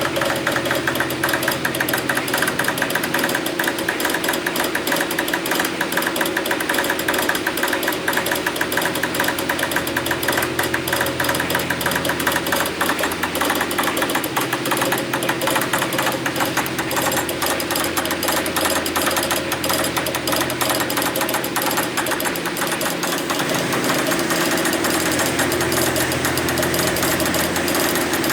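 An engine or motor running steadily with a fast rattle, without pause.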